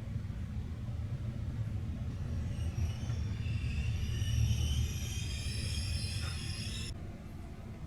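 Train running with a steady low rumble. From about two seconds in, a high squeal of several tones rides over it and cuts off suddenly near the end.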